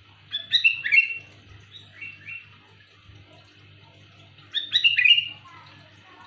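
Sooty-headed bulbul (kutilang) giving loud, clear calls: two bursts of quick chirping notes about four seconds apart, with a couple of softer notes between them.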